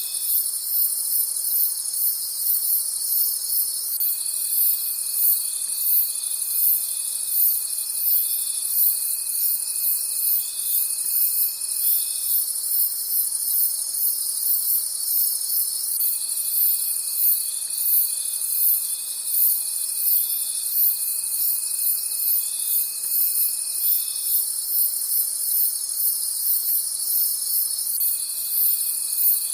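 Night chorus of crickets chirping in dense, rapid pulses, with a steadier lower trill from another insect that stops and comes back twice, each time for about four seconds.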